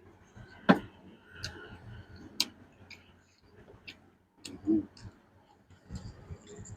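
A person eating: irregular sharp clicks and crunches of chewing and utensils, with a short low mouth sound about two-thirds of the way in.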